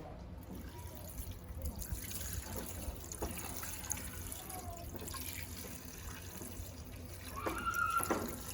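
Water running and trickling, with a brief higher-pitched sound near the end.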